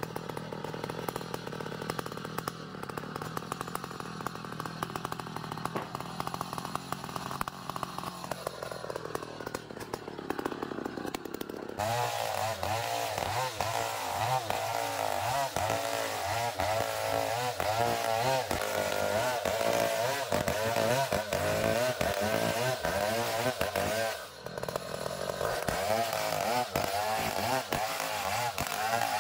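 Chainsaw cutting a log of ulin ironwood. It runs lighter at first, with its pitch rising. About twelve seconds in it goes to full revs and gets louder, the pitch wavering quickly under load. It drops off for a moment just after twenty-four seconds, then picks up again.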